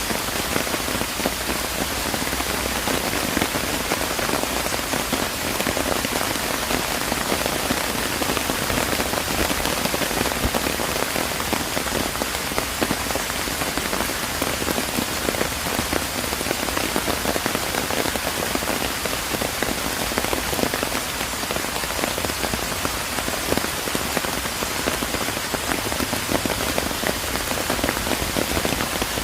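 Steady rain falling, dense patter of raindrops on surfaces, an even hiss with many fine individual drop ticks.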